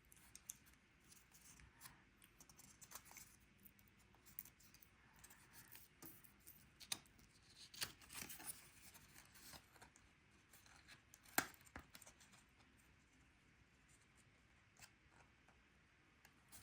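Near silence with faint rustles, scrapes and small clicks of card stock and an adhesive foam square being handled and peeled. A cluster of louder clicks and scrapes comes about halfway through, and a single sharp click follows a few seconds later.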